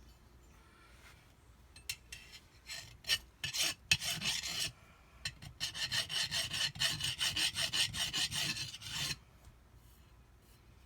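Hand file rasping back and forth across the edge of a jet-ski pump's metal impeller blade, taking off burrs left by debris damage. A few separate strokes come first, then a quick even run of about five strokes a second that stops a second or two before the end.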